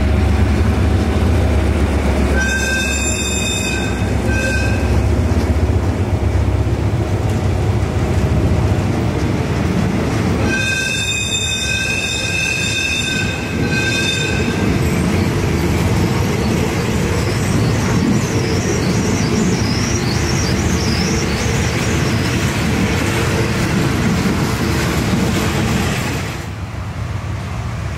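Thai railway passenger coaches rolling along the platform, with a deep rumble at the start and a steady rolling rattle throughout. Twice a high shrill tone sounds, a long one then a short one, about two seconds in and again about ten seconds in. The rolling sound drops off near the end.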